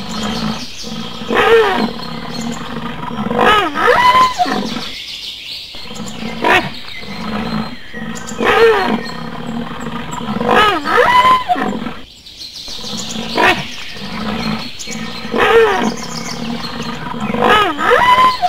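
Loud animal calls played as a rhinoceros's sound: pitched calls that rise and fall. The same few-second group of calls repeats about three times.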